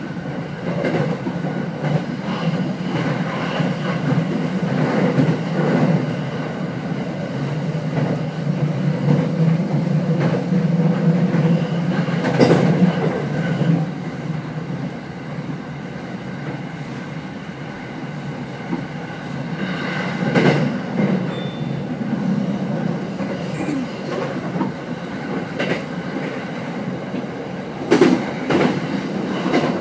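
Running noise of a Tokyo Waterfront Area Rapid Transit 70-000 series unpowered trailer car, heard from inside the car: a steady rumble of wheels on rail, with a few sharper clacks over rail joints scattered through.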